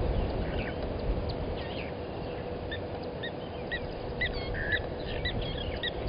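Birds calling at a waterhole with short, high chirps, a run of them about twice a second in the second half, over a low wind rumble and a faint steady hum.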